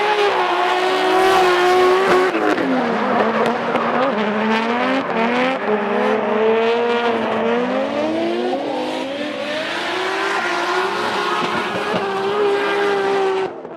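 Nissan Silvia S13 drift cars running in tandem, engines revving up and down repeatedly through the corners, with tyres squealing as they slide.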